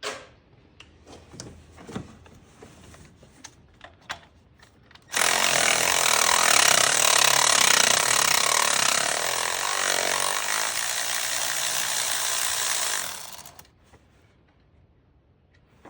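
A few light clicks and taps of hand tools, then a power tool starts abruptly about five seconds in. It runs loudly for about eight seconds and fades out near the end.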